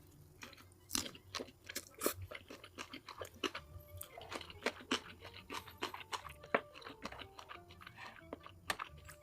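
A person chewing and biting crunchy food: a fast, irregular run of sharp crunches, several a second.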